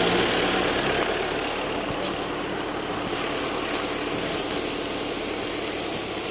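Maruti Suzuki Ritz engine idling steadily while it undergoes an engine carbon-clean (decarbonising) treatment.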